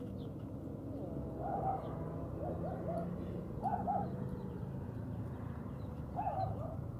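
A bird cooing in short phrases of two or three notes, four times, over a steady low rumble.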